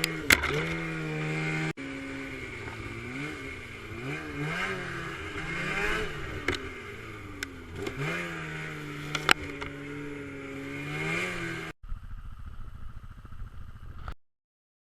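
A small off-road vehicle engine revving up and down over and over, with a few sharp knocks and clatters. Near the end it cuts to a rough stretch with no engine note, then stops dead into silence.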